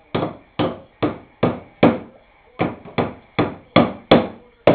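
A hammer driving nails into a wooden birdhouse: a steady run of about eleven sharp blows, roughly two and a half a second, with a brief pause about halfway through.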